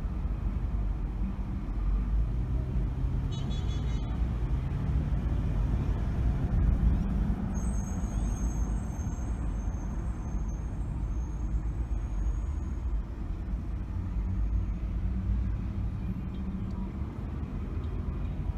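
A car driving in city traffic, with a steady low engine and road rumble. For a few seconds near the middle a high, thin squeal is heard over it.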